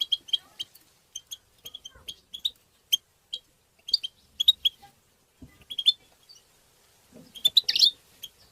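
European goldfinch giving short, sharp call notes in quick clusters of two to four chirps, with a louder, denser burst of chirps near the end.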